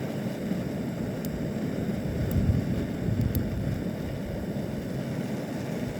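Handheld gas torch burning with a steady rushing flame, held on damp campfire wood that will not catch. A few faint ticks sound about one, two and three seconds in.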